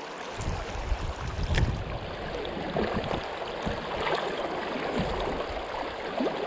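Steady rush of flowing river water, with irregular low knocks and a single sharp click about a second and a half in.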